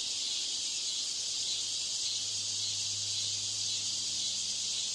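Steady high-pitched hiss of simulated bad-PA-system background noise, with a faint low hum coming in about two seconds in.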